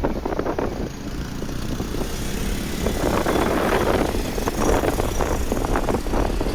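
Motorcycle engine running and road noise heard from the pillion seat of a moving motorcycle, growing louder about three seconds in.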